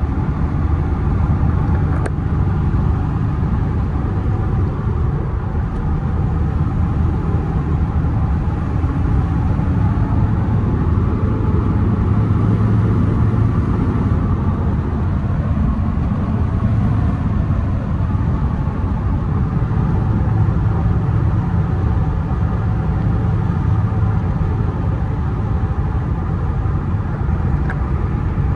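1996 Toyota Tacoma pickup being driven: a steady drone of engine and road noise that strengthens a little now and then.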